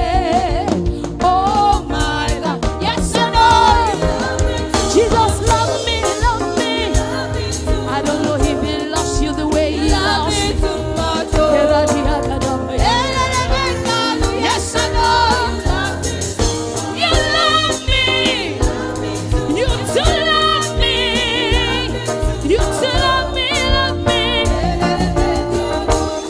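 Live gospel worship music: a band with drums and bass playing a steady groove under wavering sung melody lines.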